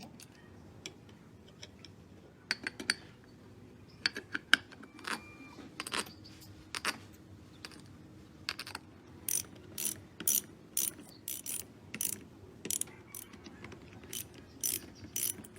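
Hand-tool work: scattered knocks and clicks, then from about the middle a steady run of short scraping strokes, about two a second.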